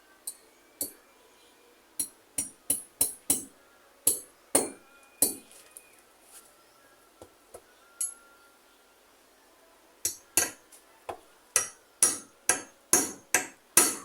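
Hammer strikes in irregular runs, with a few ringing taps and a quieter pause in the middle. The blows come quickest, about three a second, near the end.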